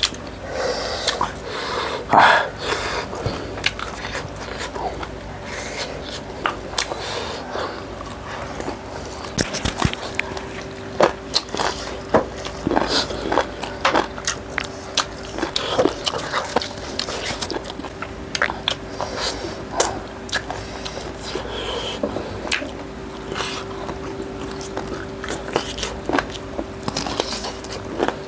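Two people chewing and biting chicken leg pieces eaten by hand, with many short wet clicks and smacks of mouths and fingers.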